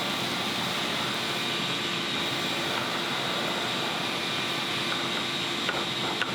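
CNC router spindle running steadily as it pockets a shallow recess into wood: an even rush of noise with a constant whine. A few light clicks come near the end.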